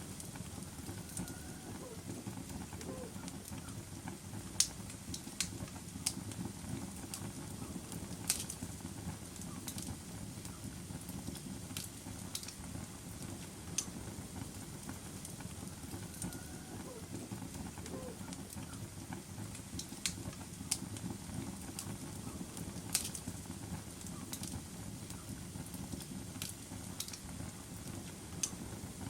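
Wood fire crackling in a fireplace: a steady low rustle of flames with sharp, irregular pops and snaps every second to several seconds.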